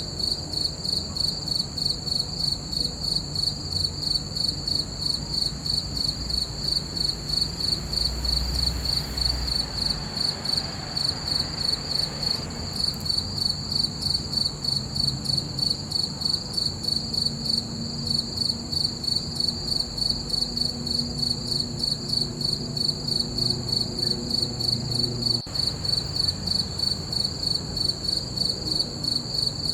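Crickets chirping in a steady, evenly repeating high-pitched trill of rapid regular pulses, with a faint low rumble underneath.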